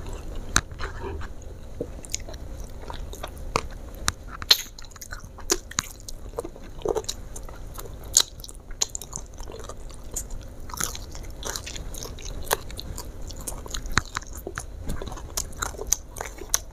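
Close-up chewing and biting of crispy garlic fried chicken, with irregular crunching clicks.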